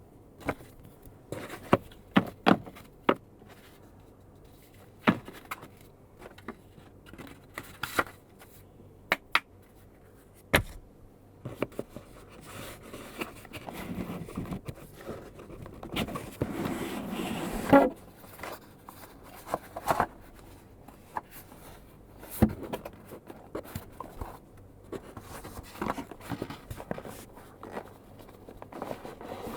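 Hands handling a lens's retail packaging: scattered sharp taps and clicks, with a few seconds of rustling and scraping midway that builds up and cuts off suddenly.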